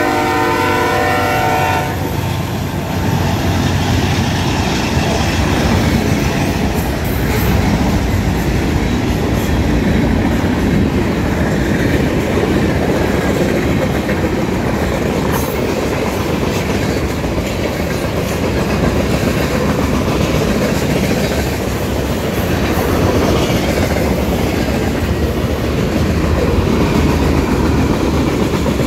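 BNSF diesel freight train's locomotive horn sounding a chord that cuts off about two seconds in. The train then passes close by with a steady rumble and the clickety-clack of freight-car wheels over the rail joints.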